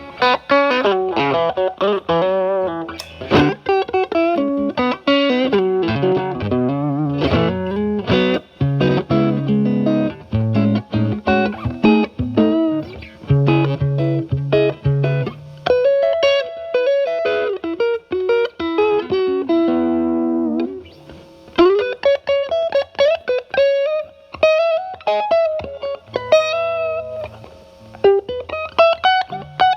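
Stratocaster electric guitar played through a Paul Cochrane Timmy transparent overdrive pedal at low gain, into a Marshall Valvestate's clean channel, giving a lightly driven tone. Quick runs of notes in the first part, then, after a short break about 20 seconds in, slower notes with bent pitches.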